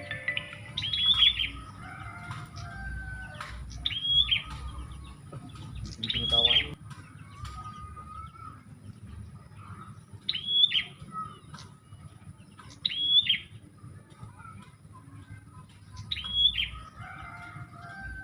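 Prinia (prenjak) lure-call recording: a short, arched chirping phrase repeated six times, about every two to three seconds, with fainter chirps from other birds between.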